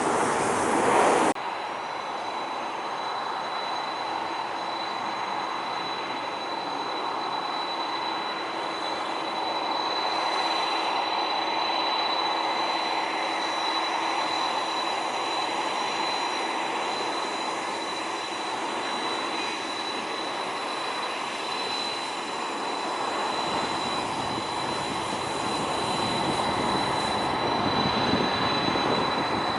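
Jet airliner engines running: a steady rushing noise with a high, steady whine. The level drops abruptly about a second in, and a fainter whine glides in pitch a third of the way in and again near the end.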